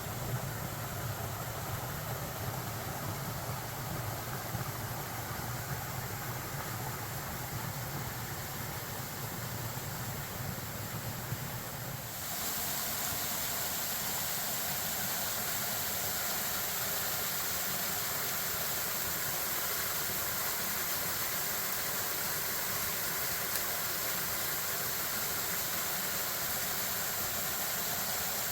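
Steady rush of water from a partly frozen waterfall. The sound shifts a little about twelve seconds in, when a low hum drops away.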